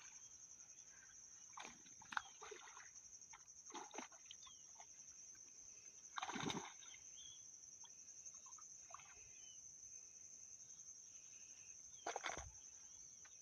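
A steady high-pitched insect trill, faint, with a few brief knocks or splashes; the loudest come about six seconds in and near the end.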